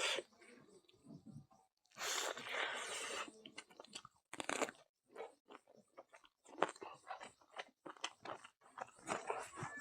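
Close-up mouth sounds of someone chewing and crunching a pork-and-pork-blood dish: irregular wet clicks and crunches. About two seconds in there is a longer noisy rustle lasting a little over a second.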